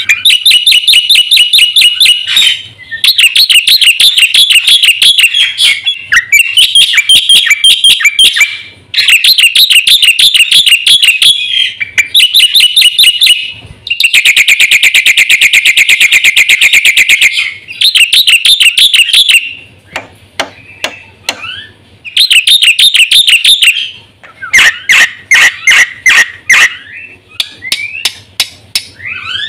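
Black-winged myna (jalak putih) singing loudly in long phrases of rapid, repeated shrill notes, with a fast, even trill about halfway through and short pauses between phrases. The song is full of varied phrases mimicked from other birds.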